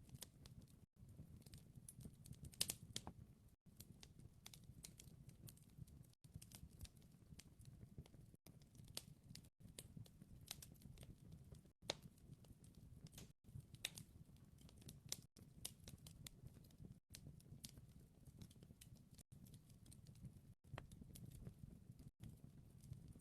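Wood fire crackling faintly: many small pops and snaps over a low steady rumble, with a louder pop about two and a half seconds in. The sound drops out for an instant every second or two.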